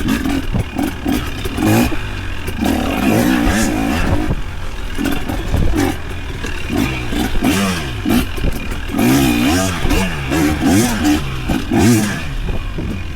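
Off-road vehicle engine revving up and down as it works along a rough trail, with clattering from the vehicle and brush.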